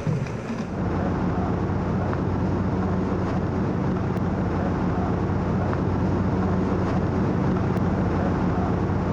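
Boat engine running steadily, a low even hum heard from on board.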